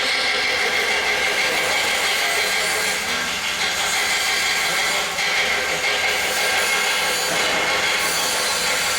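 Electric welding arc running steadily with a continuous crackling hiss, briefly dipping a few times.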